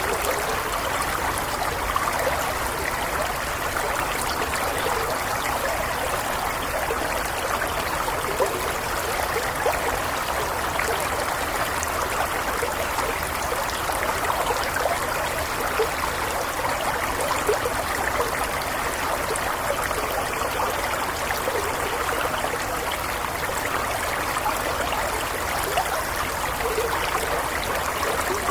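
A small stream flowing steadily over stones, with a constant babble and trickle of water.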